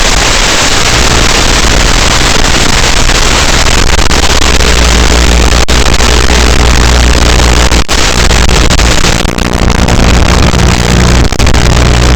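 FPV drone's motors and propellers running hard, a loud, dense buzz with rushing air, briefly cutting out for an instant twice.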